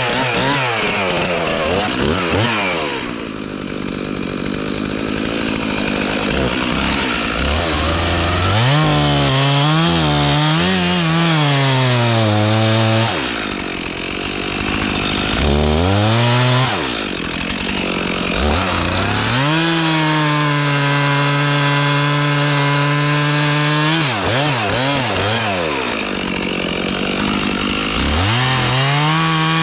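Engine repeatedly revving up, holding at high speed and dropping back toward idle. The pitch wavers while held high around the tenth second and drops sharply at about 13, 16 and 24 seconds in.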